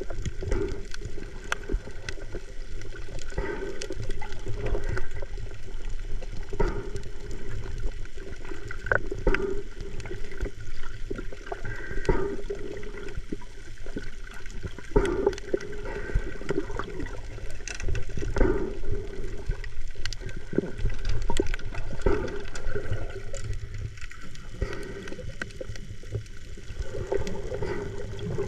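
Water sloshing and gurgling over a steady low motor hum, with frequent small splashes and knocks.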